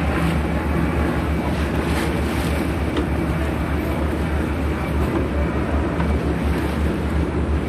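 Steady rush of sea water with wind buffeting the microphone, over a constant low hum like a boat's engine under way.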